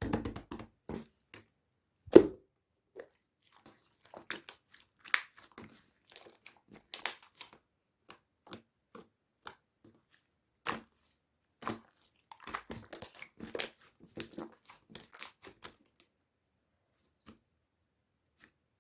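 Chewy clear slime being squished and stretched by hand, giving irregular sticky clicks and pops, the loudest about two seconds in, dying away in the last few seconds.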